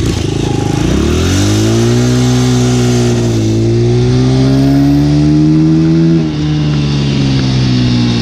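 Dirt bike engine accelerating: its pitch climbs sharply about a second in and keeps rising. It dips briefly once partway through, then drops suddenly about three-quarters of the way in, as at a gear change or throttle lift, and runs on steadily.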